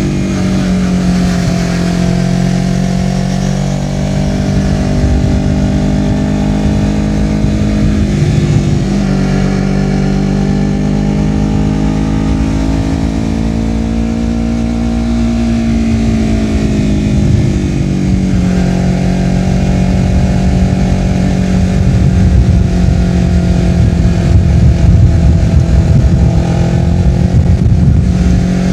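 Honda CBR250RR parallel-twin engine through a Yoshimura R-11 slip-on exhaust, ridden on the road with the note rising and falling with the throttle. The pitch breaks and resets twice, about 8 and 18 seconds in, and a low wind rumble grows louder near the end.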